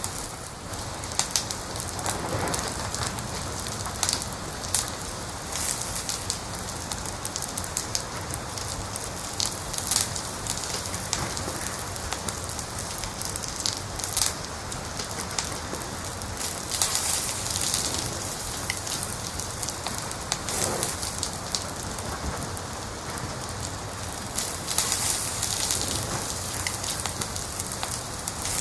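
Wood fire crackling, with frequent sharp pops and snaps over a steady hiss.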